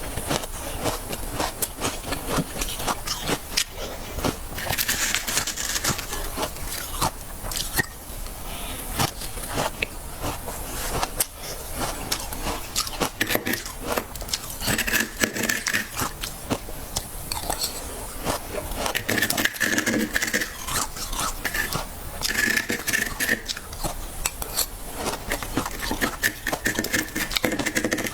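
Frost being scraped from the inside walls of a freezer and crunched while eaten: dense crackling crunches and scrapes throughout.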